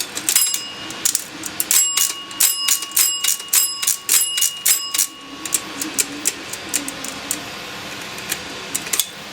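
Antique cash register's key mechanisms clacking as its keys are worked, with its bell ringing under quick repeated strikes, about two or three a second, for several seconds, then lighter clicking of the keys.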